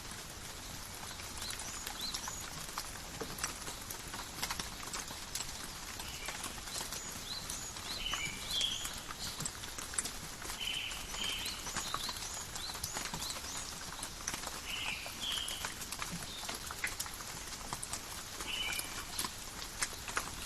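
Steady rain falling in a forest: an even hiss with many close drops pattering and dripping. From about six seconds in, short chirping calls come every second or two.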